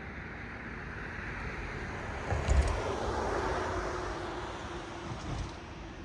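A car passing on a road, its tyre noise swelling and then easing off. A low thump comes about two and a half seconds in, the loudest moment, and a fainter one near the end.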